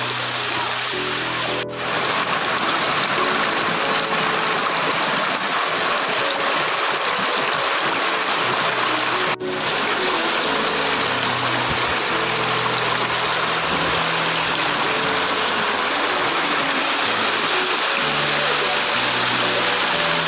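A stream of clear water rushing over rocks in a steady, even wash, with background music of held notes under it. The sound drops out for an instant twice, about 2 seconds in and about 9 seconds in.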